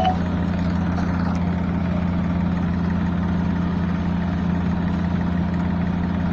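Tractor diesel engine idling steadily, a low even drone.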